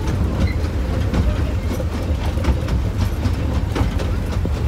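Miniature railway passenger train running along the track, heard from on board a carriage: a steady low rumble with frequent clicks of the wheels on the rails.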